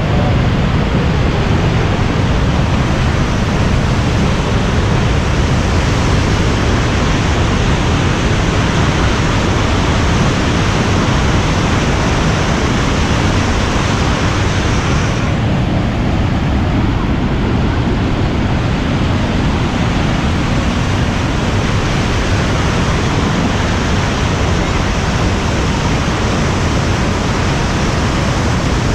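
Loud, steady rushing of the Maligne River's water pouring through the narrow canyon, a continuous hiss with no breaks.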